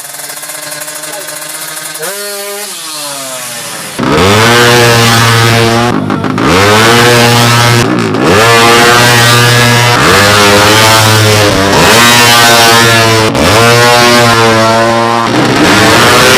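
Four-stroke 200cc underbone drag bike engine revving hard, its pitch climbing and dropping sharply about every two seconds. It runs quieter at first, with one short blip, then turns much louder about four seconds in.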